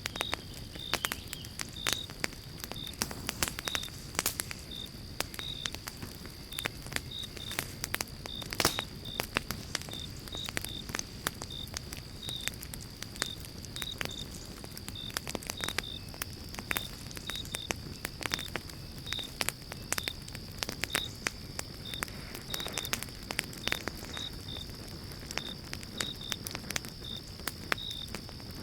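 Pine-log campfire crackling and popping: many irregular sharp cracks over a steady low rush of burning. Behind it an insect chirps steadily, about two short high chirps a second, over a thin steady high tone.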